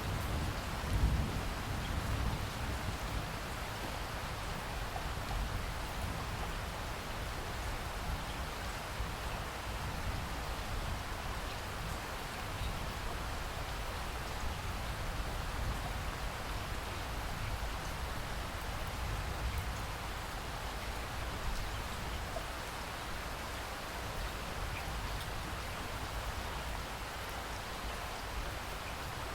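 Steady rain falling, with a low rumble underneath that swells briefly about a second in.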